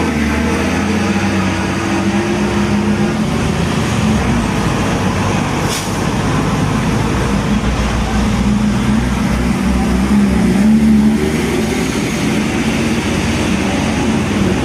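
Diesel truck engines running in heavy road traffic, a steady loud drone with a brief hiss about six seconds in.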